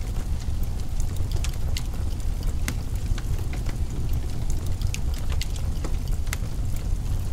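Wood fire in a fireplace crackling, with frequent irregular sharp pops, over a steady low rumble.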